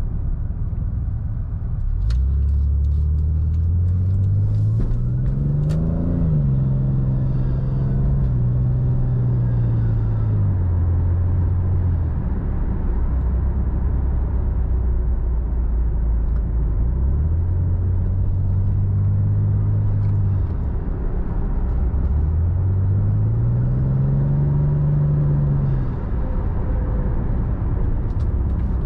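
Toyota Supra MK4's 2JZ straight-six engine under way. Its note climbs steeply for about four seconds and then falls off to a steady cruise. The pitch rises twice more, with a brief drop in sound near the end.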